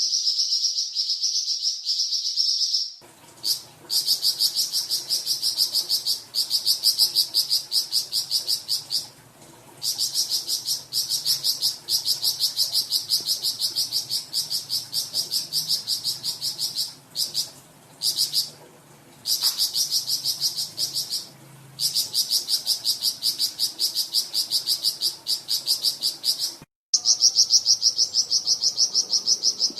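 Burung flamboyan singing long, fast trills of high, sharp repeated notes, several a second, in phrases of several seconds broken by short pauses: the long 'nyecret' rattling song that keepers use to tutor other songbirds.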